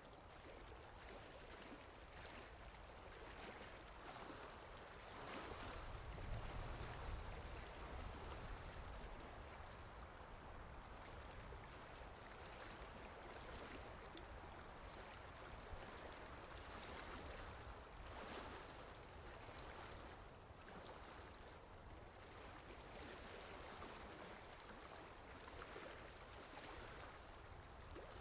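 Steady rain falling, a soft, even hiss with a low rumble that swells and fades about five to nine seconds in.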